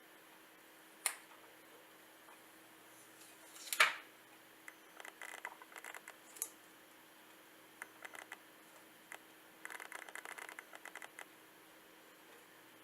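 Protective plastic film being peeled off a smartwatch: a click about a second in, a louder tearing peel near four seconds, then two spells of crinkling plastic.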